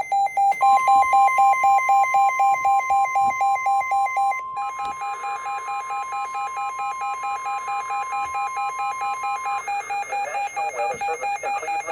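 Emergency weather alert tones: a steady single-pitch warning tone of the kind NOAA Weather Radio sounds before a warning, held for about nine seconds, over rapid electronic beeping from another alert device that changes pitch about four seconds in.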